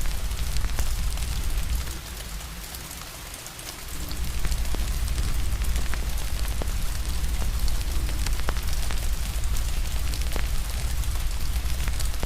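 Steady rain hiss with a wood fire crackling, scattered sharp pops over a deep low rumble. The rumble and overall level drop away for about two seconds, starting about two seconds in, then return.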